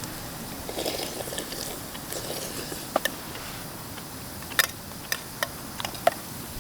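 Scattered light clicks and taps, with some scraping in the first second or so, as small objects are handled up close.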